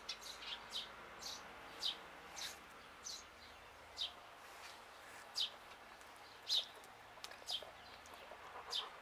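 Small birds chirping: short, high chirps repeated irregularly, about one every half second to a second.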